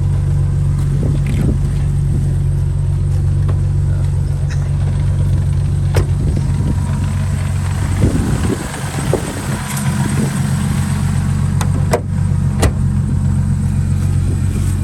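Turbocharged car engine idling steadily, with a brief unsteady patch about eight seconds in and a few sharp clicks.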